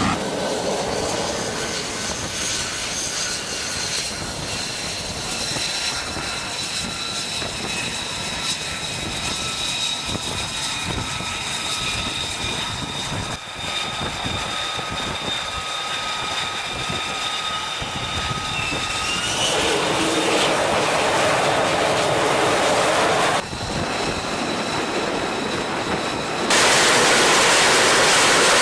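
F-35B jet engine (Pratt & Whitney F135) running, a steady rushing roar with a high turbine whine over it. About twenty seconds in the roar grows louder and stops abruptly, and a few seconds later a louder jet rush starts suddenly.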